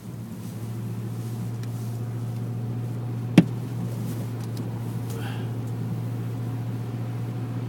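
Vehicle engine and road noise while driving, a steady low drone that comes up just after the start. One sharp knock cuts through midway.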